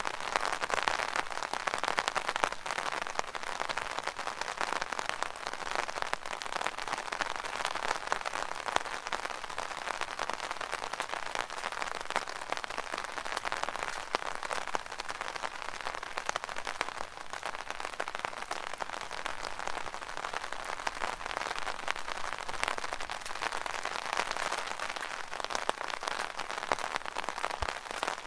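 Rain pattering on an umbrella's canopy: a dense, steady crackle of drops that swells and eases slightly.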